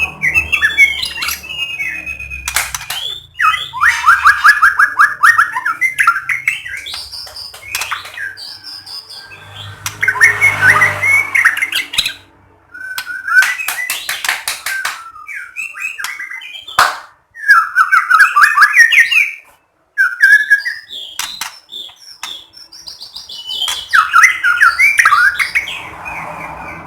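White-rumped shama (murai batu) singing a varied song of whistled phrases, fast trills and sharp clicks, in bursts with short pauses between them.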